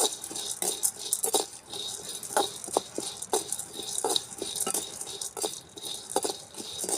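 Roasted gram (pottukadalai) being dry-roasted in a pan, the dal rattling and scraping under a stirring spoon in irregular strokes, one or two a second.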